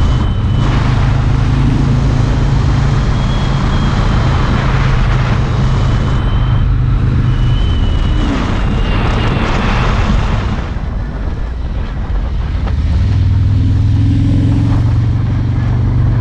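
Harley-Davidson Road King's V-twin engine running under way with wind rush. It holds a steady pitch, eases off and drops in level for a few seconds past the middle, then pulls steadily again near the end.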